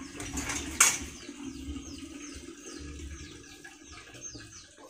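A bird calling over and over, a quick falling chirp about three times a second. Under it is the soft rustle of a hand stirring dry seeds on a bamboo winnowing tray, with one sharp click about a second in.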